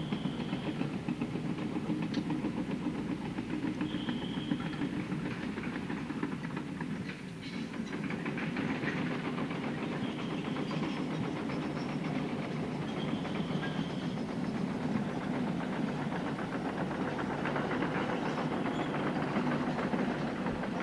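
Fishing boat's diesel engine running steadily, a low rumble with a fast, even knock.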